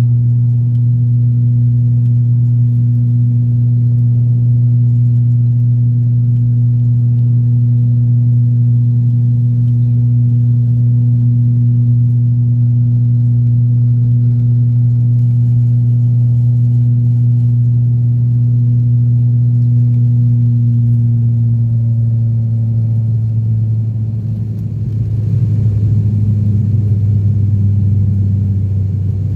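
ATR 42-600 twin-turboprop droning steadily, heard inside the cabin: a strong low hum from the propellers. Near the end the hum dips slightly in pitch and turns rougher.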